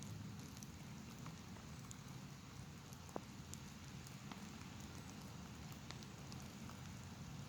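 Light sprinkling rain, scattered drops ticking over a low steady rumble, with one sharper tick about three seconds in.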